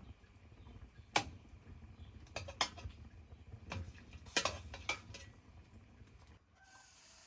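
Cooking utensils clinking and knocking against pots and dishes: a handful of sharp, separate clinks over about five seconds. Near the end the sound changes abruptly to a steady hiss.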